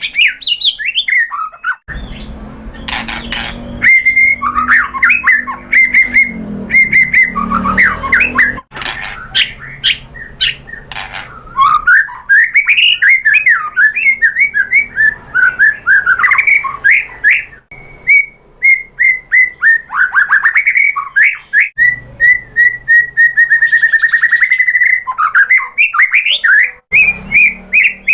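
White-rumped shama singing a long, varied song of quick whistled phrases, trills and rapid repeated chips, with hardly a pause. A low rumbling noise runs underneath for several seconds near the start.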